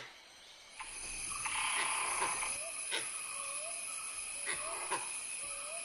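Forest ambience: a steady high insect drone sets in about a second in, with a short rising call repeated about every 0.7 s and a few soft clicks.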